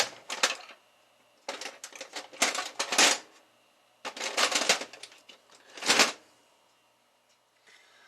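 Hard clattering and rattling, as of small metal parts or tools being handled and set down, in four bouts, the last one short and sharp, then it stops.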